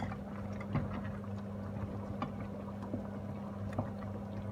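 Tomato-based chicken sauce simmering in a pot, with small bubbles popping at irregular intervals over a steady low hum.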